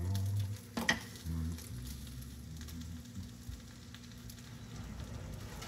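Omelet frying in a seasoned black carbon steel pan, a steady faint sizzle, with one sharp knock about a second in.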